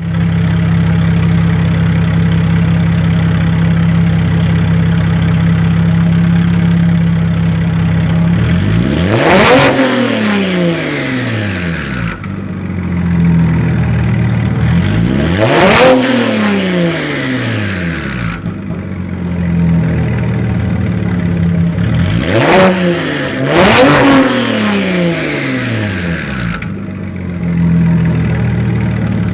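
BMW 335i's N54 twin-turbo inline-six, heard through its exhaust, idling steadily and then free-revved four times: single revs after about nine and sixteen seconds, then two quick revs in a row near the end, each rising in pitch and falling back to idle.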